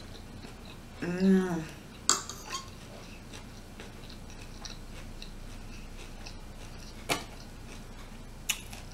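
A short hummed vocal sound about a second in, then a few sharp clicks of cutlery against a plate or dish, spread out through the rest.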